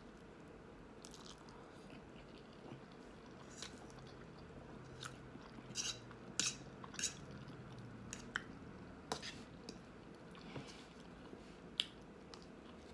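Close-up eating sounds: chewing pasta and bread, with irregular wet mouth clicks and smacks.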